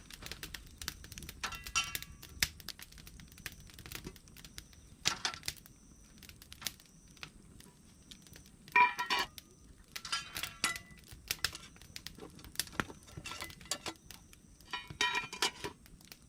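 Wood campfire crackling: scattered sharp pops, with short flurries of snapping every few seconds.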